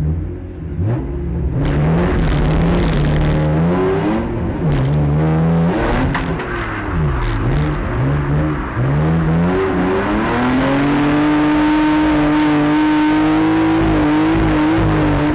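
Drift car's engine heard from inside the cabin, revving up and down through the gears as it pulls away and accelerates, then held at steady high revs for the last few seconds.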